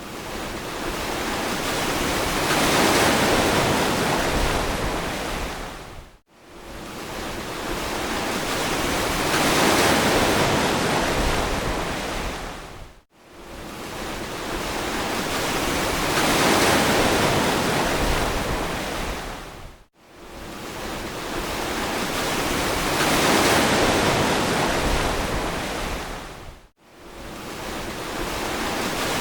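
Ocean waves washing on a beach: a steady hiss of surf that swells and ebbs about every seven seconds. Each swell is separated by a brief, abrupt dropout to near silence.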